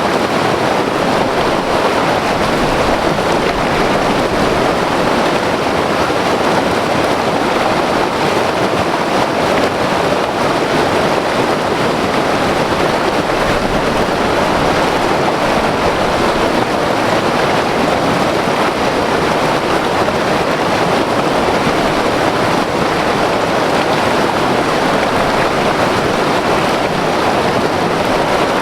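White water river rushing over rocks: a loud, steady roar of turbulent water without breaks.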